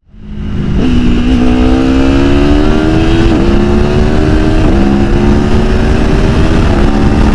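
Aprilia Tuono V4 motorcycle's V4 engine accelerating hard under load, its pitch climbing steadily and then dropping sharply about three times as it shifts up through the gears.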